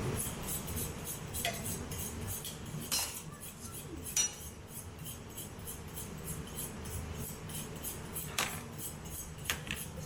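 Cutlery and crockery clinking over a low steady background, with a few sharper clinks of metal on plates.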